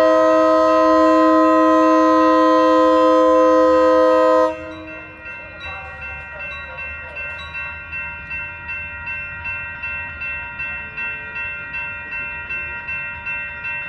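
Amtrak Surfliner locomotive's horn sounding one long, loud chord that cuts off about four and a half seconds in. After it a bell rings steadily at about two to three strokes a second over the low rumble of the passing train.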